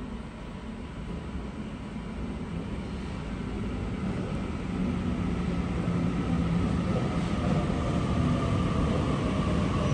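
Double-deck electric train running into an underground station platform. Its rumble grows steadily louder as it approaches, and a steady whine joins in about halfway through.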